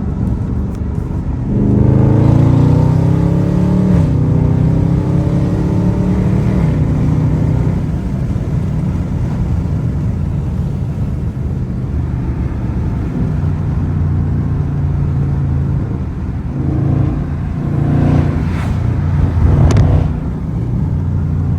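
Dodge Charger Scat Pack's 6.4-litre HEMI V8 through a mid-muffler-deleted exhaust while driving: it accelerates with a rising pitch about two seconds in, then cruises steadily, with a couple of short, sharp rises in revs near the end.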